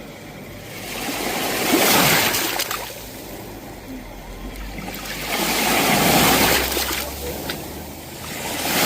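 Sea waves breaking on a shore: a rushing wash that swells and ebbs about every four seconds, two waves cresting and a third building near the end.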